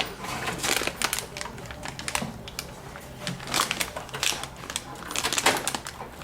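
Irregular plastic clicks and taps of PCIe power cables and their connectors being handled and plugged into a modular power supply.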